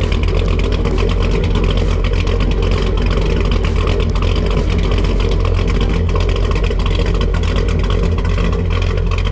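1968 GMC Suburban's LS-swapped V8 running steadily through its new dual Black Widow exhaust, loud and even with a deep exhaust note.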